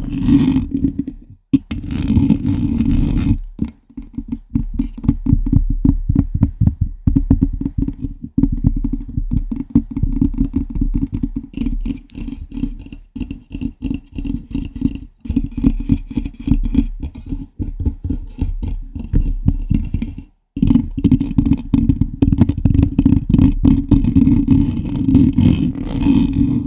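Fingers scratching and tapping directly on a microphone: a dense run of rapid scratchy strokes with boomy low thuds, broken by a few brief pauses.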